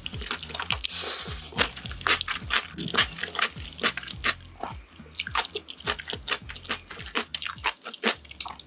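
Close-miked eating sounds: a slurp of jajangmyeon noodles in black bean sauce, then wet chewing with many quick, sharp mouth clicks and smacks.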